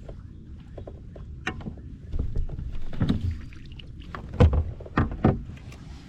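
A series of sharp knocks and thumps on a plastic fishing kayak over low rumbling handling noise. The loudest three come in quick succession between about four and a half and five and a half seconds in.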